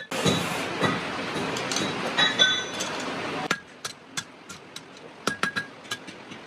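Hand hammer striking hot or cold metal on an anvil: separate sharp blows that ring with a metallic tone. For the first three and a half seconds a loud, dense rushing noise with metal clinks covers the blows, then it cuts off suddenly.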